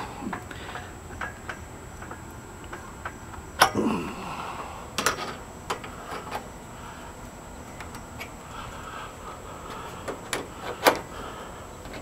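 Scattered light clicks and knocks of objects being handled, with a few sharper clacks about four, five and eleven seconds in.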